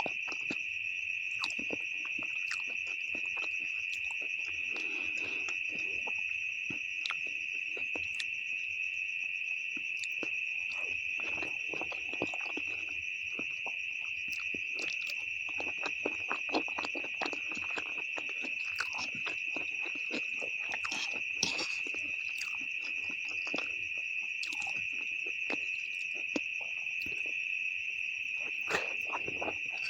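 Close-miked eating of instant noodles with beef: irregular chewing and slurping clicks and smacks. Behind it, a steady high-pitched tone runs throughout and is the loudest sound.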